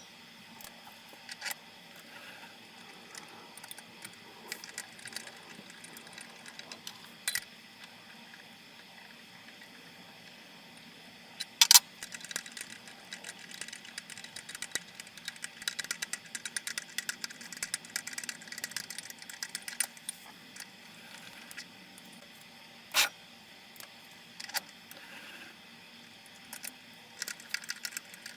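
Small metallic clicks and clinks of hand tapping #4-40 threads in aluminum plate on a mini-mill: a tap wrench being worked and tools handled. There is a sharp knock about twelve seconds in, followed by a run of quick small clicks, another knock near the end, and a faint steady hum throughout.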